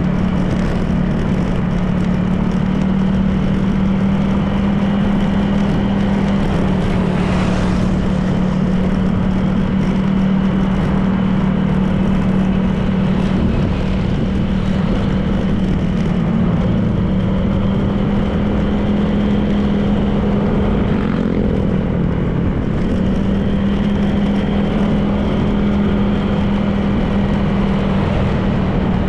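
Honda PCX 160 scooter's single-cylinder engine running at a steady cruising pitch, with wind and road noise. The engine note dips briefly about three-quarters of the way through, then settles back.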